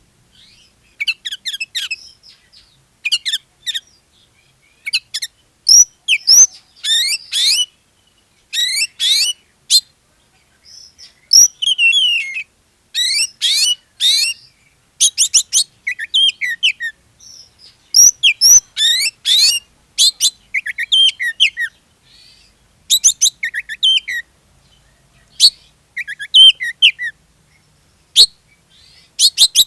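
Oriental magpie-robin (kacer) in full song: phrase after phrase of rapid, varied whistles and chirps, broken by short pauses. It is a bird in top singing form (gacor), the kind of song played to set other magpie-robins singing.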